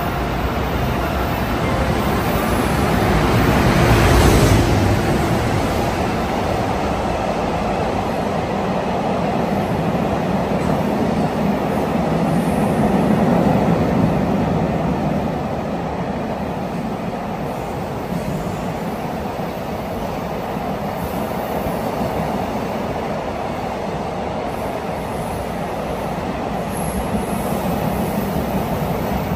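JR Freight EF510 electric locomotive passing close by, loudest about four seconds in, followed by the steady rolling rumble of a long freight train of container wagons going past.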